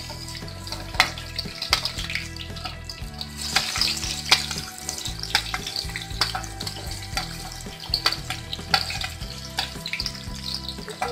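Boiled potato pieces dropping into hot oil in a steel kadhai and sizzling, a steady hissing spatter with frequent sharp clicks and knocks against the metal.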